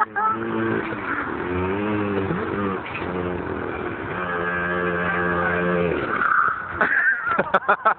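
Small 50cc quad bike engine running, revving up and down in pitch for a few seconds, then holding a steady speed before it stops about six seconds in.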